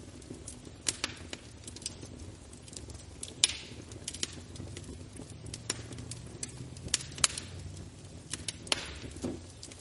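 Wood fire in a fireplace crackling: irregular sharp pops, the loudest about three and a half seconds in, over a low steady rumble of the flames.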